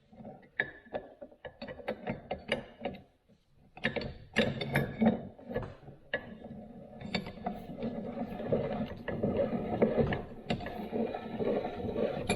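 Metal parts of a Record No. 6 bench vise clicking and rattling as its Acme screw is screwed in: scattered clicks, a short pause about three seconds in, then steady, busy clicking and rattling.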